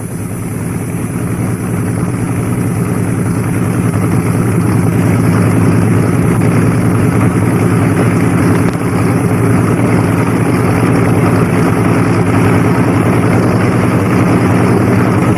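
Propeller-driven aircraft engine running with a steady drone, growing louder over the first few seconds and then holding level.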